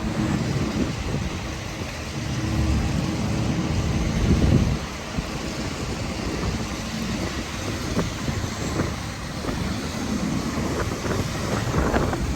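Heavy vehicle engine rumble, louder for the first five seconds and then easing, with wind buffeting the microphone.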